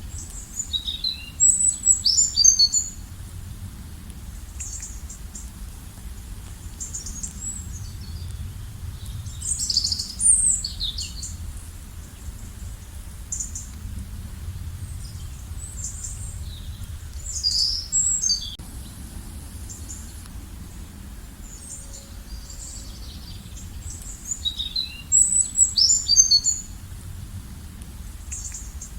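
Songbird singing short phrases of quick high chirps, repeated about every eight seconds, over a steady low background noise.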